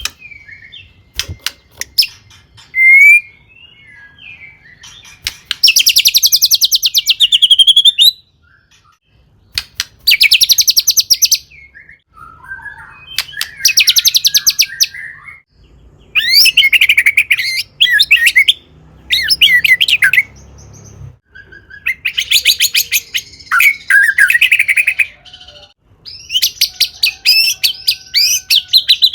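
White-rumped shama (murai batu) in full song: about seven loud, high phrases of a couple of seconds each, every one a very fast rattling run of notes, with short pauses between them and a few sharp clicks near the start.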